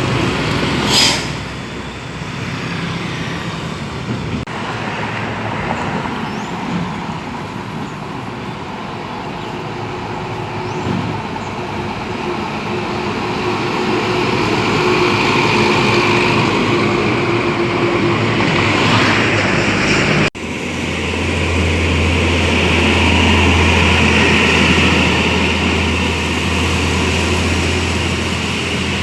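Heavy road traffic with trucks passing, including a short, sharp hiss about a second in. Partway through, the sound cuts abruptly to a steady, deep engine hum from a large vehicle close by.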